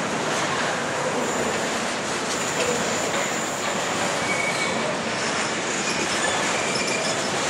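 Freight wagons loaded with long lengths of rail rolling past: a steady rush of steel wheels on the track, with a few brief high-pitched wheel squeals.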